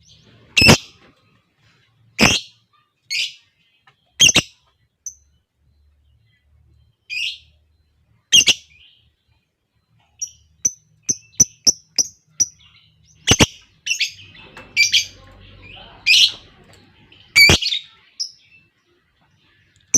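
Lovebirds calling: sharp, shrill single chirps and short squawks at irregular intervals, with runs of quick high tweets, about three a second, in the middle and near the end.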